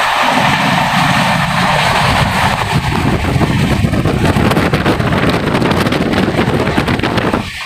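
Passenger train running at speed, heard from the open doorway of a moving coach: a steady loud rumble of wheels on the rails with rushing air noise.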